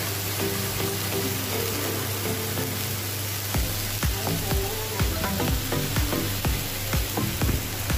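Green chillies, onion and garlic sizzling in hot oil in a wok as soy sauce is poured in, a steady frying hiss. From about halfway through, irregular sharp crackles and clicks come several times a second.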